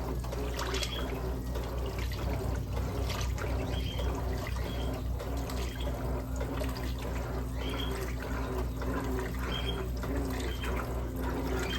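Electrolux LM08A top-loading washing machine running a towel load, water sloshing and splashing irregularly over a steady low motor hum.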